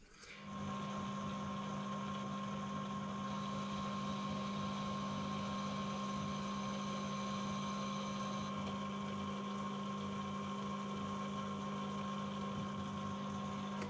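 Metal lathe running steadily under power, with a constant hum, while a single-point threading tool cuts an 11 TPI thread with the lead screw engaged. It starts just after the beginning and stops near the end.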